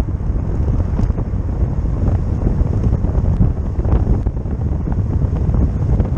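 Wind buffeting the microphone in a steady low rumble, with a few faint ticks.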